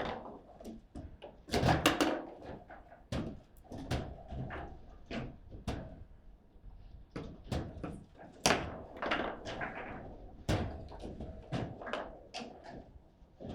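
Table football in play: irregular sharp knocks and clacks as the ball is struck by the rod figures and the rods bang against the table, with a cluster of loud hits a couple of seconds in and another burst past the middle.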